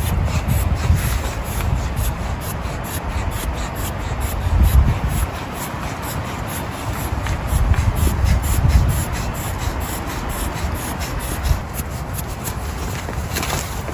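Heavy rain falling on tent or tarp fabric as a dense, steady patter, with low gusts of wind swelling about a second in, near the middle and again around two thirds through.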